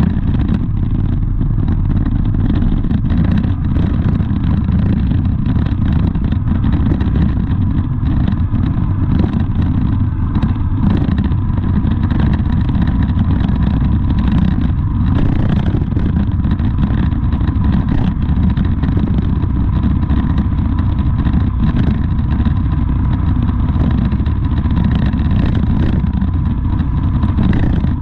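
Steady road-vehicle noise: a continuous low rumble with a faint steady whine, unbroken throughout.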